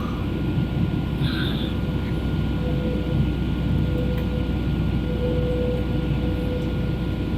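Steady cabin drone of a Boeing 737 in flight, engines and airflow noise heard from inside the passenger cabin while the airliner circles in a holding pattern, with a faint steady whine above the low roar.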